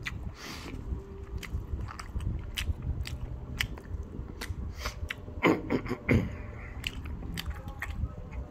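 A person chewing a mouthful of beef Coney dog (chili hot dog), with close wet mouth clicks and smacks throughout and two louder mouth sounds about five and a half and six seconds in.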